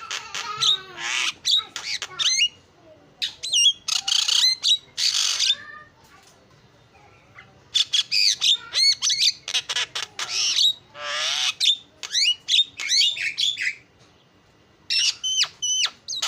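Javan myna singing: quick runs of gliding whistles broken by harsh, raspy squawks, in three bouts with two short pauses, one about six seconds in and one near the end.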